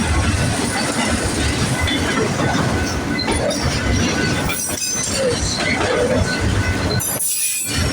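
Empty manifest freight cars rolling past on the rails: a loud, steady rumble of wheels on track with a faint wheel squeal, briefly thinning near the end.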